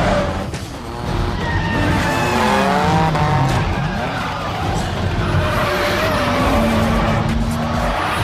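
A car engine revving up and down as the tyres squeal in a drift, with the pitch climbing and falling several times and then holding steady near the end.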